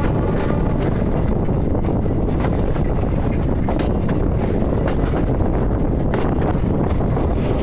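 A moving passenger train heard from an open doorway: a steady rush of wind on the microphone over the rumble of the wheels, with scattered sharp clacks from the wheels on the track.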